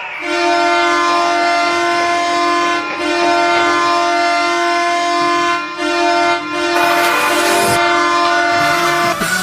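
Ottawa Senators goal horn sounding: one long, deep, loud horn blast with a couple of momentary dips, cutting off just before the end.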